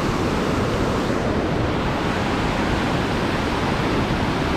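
Steady, even rush of flowing water at a dam.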